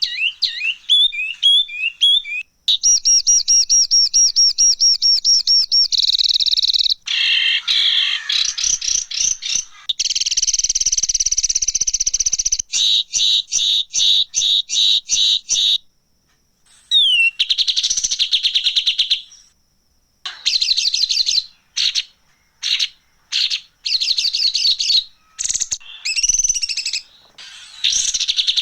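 Songbird masteran tutor track: high-pitched, harsh chattering calls, fast trills and rapid chip series that switch abruptly to a different call pattern every few seconds, with short breaks between them.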